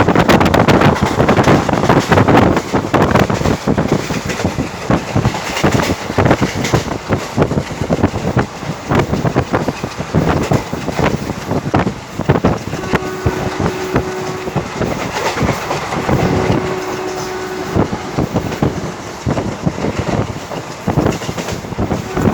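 Train running along the track, heard from on board: wheels clattering over the rails with a constant rumble and rush of air. A steady tone sounds twice, for about a second and a half each time, midway through.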